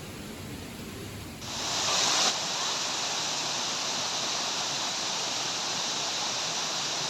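A low vehicle rumble that cuts off about a second and a half in, giving way to the steady rush of flowing water, louder for a moment just after the change.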